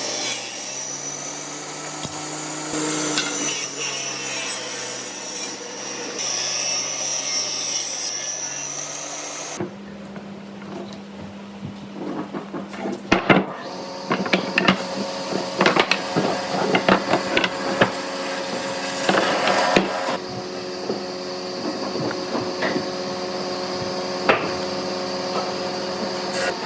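Wood being worked with hand tools: rubbing and scraping over a steady hum, then, after an abrupt change about ten seconds in, a run of irregular knocks and taps on wood.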